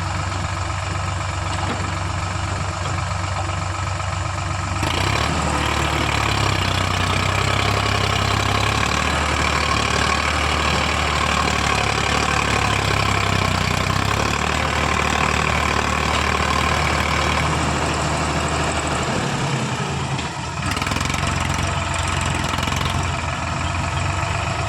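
Sonalika tractor's diesel engine running, growing louder about five seconds in and holding there, with a brief dip near the end. The tractor is under load, bogged in wet soil.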